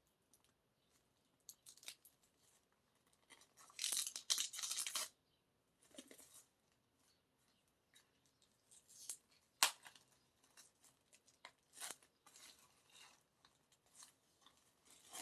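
A music album's packaging being opened by hand: a tearing sound lasting about a second, about four seconds in, then scattered sharp clicks and short scrapes of the package being handled.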